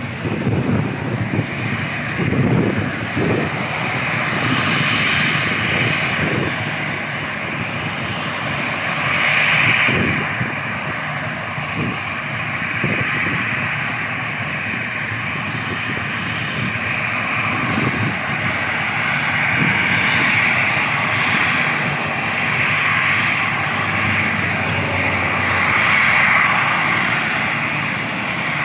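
Aircraft engines running loud and steady, swelling and easing a few times, with wind buffeting the microphone.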